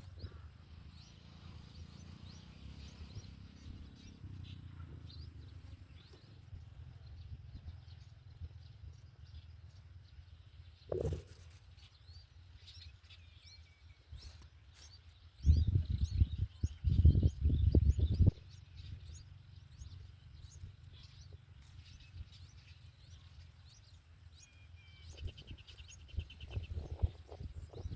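Small birds chirping here and there, with a short rapid trill near the end, over a steady low rumble that swells loudly for about three seconds in the middle. A single sharp knock comes about eleven seconds in.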